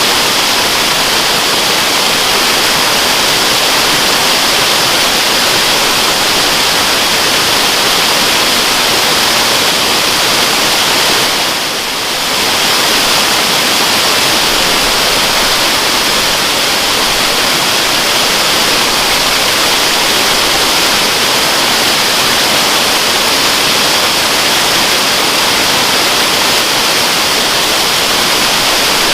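Waterfall, a steady rush of falling water with a bright, hissy edge, dipping briefly in level about twelve seconds in.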